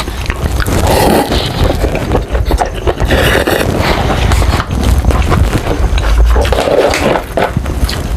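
Close-up chewing and crunching of Jollibee Chickenjoy fried chicken, a dense run of quick, irregular crunches and mouth clicks.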